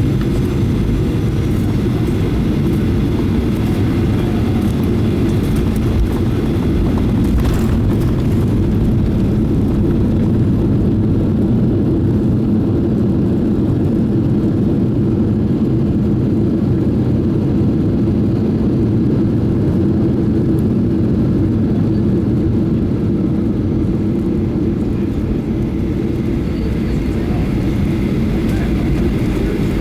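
Cabin noise inside a Boeing 737-800: a steady low rumble of engines and airflow, with one short knock about seven seconds in.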